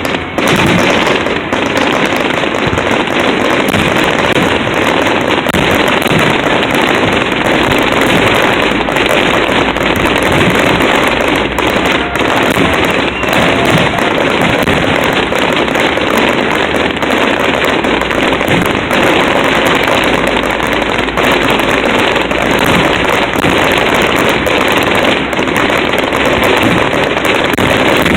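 Fireworks display in a dense, continuous barrage: rapid overlapping bangs and crackle with no pauses.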